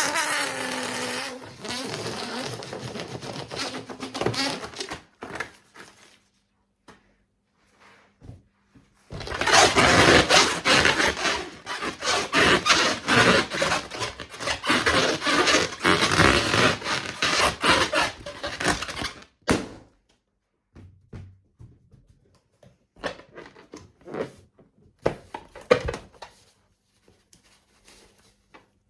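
Rubber balloon sounds: a rasping noise that fades out over the first few seconds, then a long, loud stretch of rapid rasping flutter from about nine to nineteen seconds in, followed by short scattered rubbery sounds.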